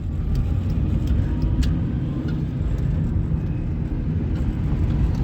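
1998 Suzuki Baleno running, a steady low rumble with a few faint light ticks.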